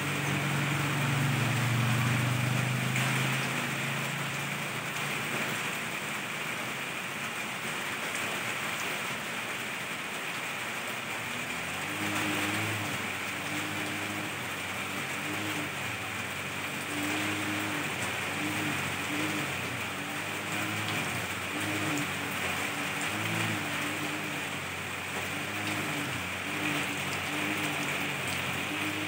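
Steady rain falling on the leaves of a garden tree, an even hiss throughout. A low rumble sits under it in the first few seconds, and a faint wavering low hum runs in the background from about midway on.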